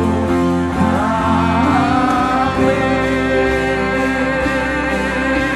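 Live worship band playing slow sustained chords, with voices singing along.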